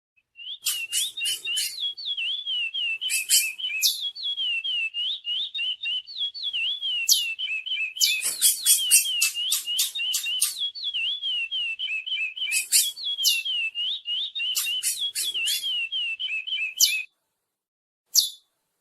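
Curió (chestnut-bellied seed finch) singing a long, fast run of warbled whistles mixed with sharp high notes. The song stops about 17 seconds in, and one short note follows near the end.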